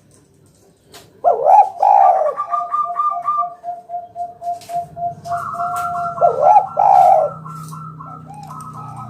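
Spotted dove (tekukur) singing: two loud curved coos about a second in, then a rapid even trill of about four pulses a second, then two more loud coos around six to seven seconds in. A higher pulsed trill runs alongside, and a low hum comes in about halfway.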